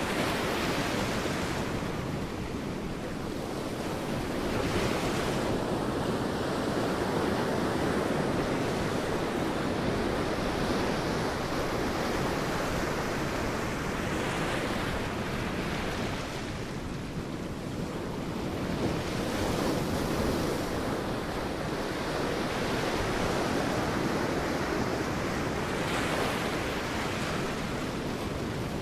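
Sea waves breaking on a beach: a constant wash of surf, with a wave crashing and rushing in every five to ten seconds.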